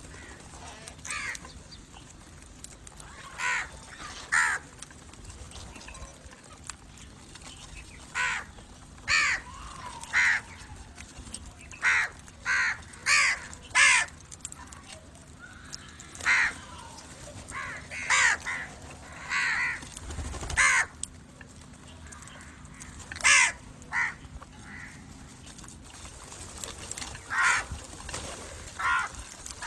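Crows cawing repeatedly: short, harsh caws, singly and in quick runs of two or three at irregular intervals, some loud and some fainter.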